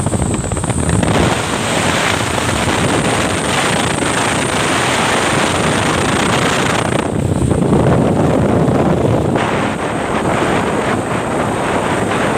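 Loaded truck on the move: a steady rush of engine and road noise, with wind buffeting the microphone.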